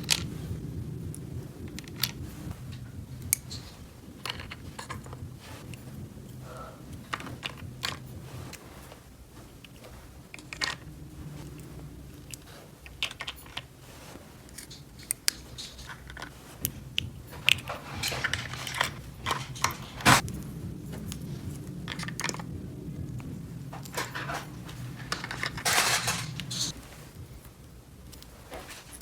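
Small hard plastic toy pieces clicking and clattering as they are handled and set down, with scattered sharp taps and short rustles over a low steady hum. The loudest tap comes about two-thirds of the way through.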